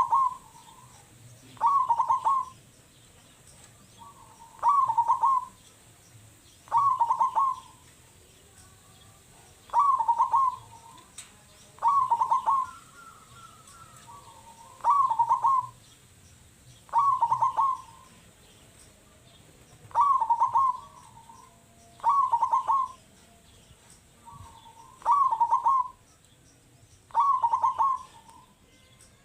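Zebra dove (perkutut) cooing its song over and over: a short phrase of a few quick notes, under a second long, about every two and a half seconds.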